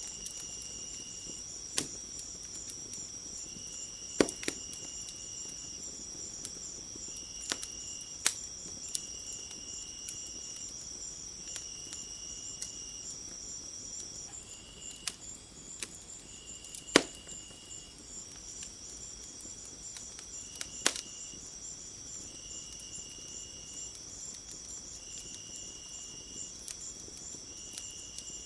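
Crickets trilling steadily, with a lower insect chirp repeating in short bursts about once a second. Scattered sharp pops and crackles from a wood fire cut through, the loudest a little past halfway. The high trill drops out for a few seconds around the middle, then resumes.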